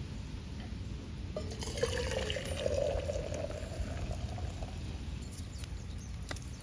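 Water being poured into a container for about three seconds, its pitch rising slightly as the vessel fills.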